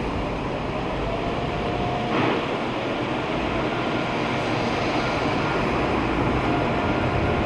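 Automatic tunnel car wash equipment working on the car, heard from inside the cabin as a steady rushing noise, with a brief swish about two seconds in.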